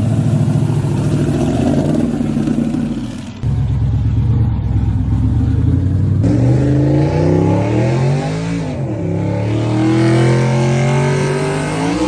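Drag-race pickup truck engines running and revving, the pitch climbing and dropping back about two-thirds of the way through. The sound changes abruptly twice, about a third and half of the way in.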